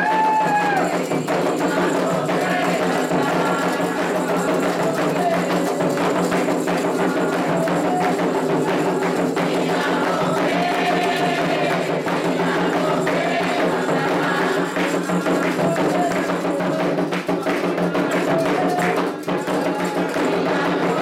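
Candomblé sacred music: atabaque hand drums playing a rhythm for Oxossi, with sharp percussive strikes and voices singing over it.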